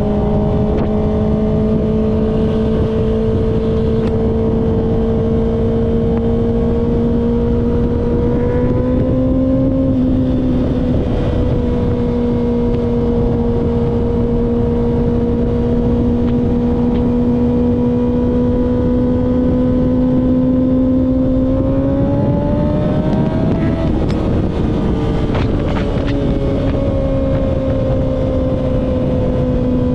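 Kawasaki ZX-6R's inline-four engine running at steady cruising revs under heavy wind rush. The revs climb briefly and then drop twice, around nine seconds in and again around twenty-four seconds in.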